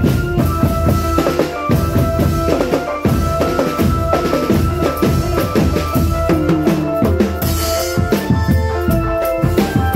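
Drum band music: bass and snare drums beating steadily under a melody line.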